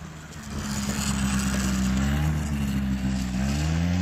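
Quad bike engine running under changing throttle, its pitch rising and falling several times, getting louder about half a second in.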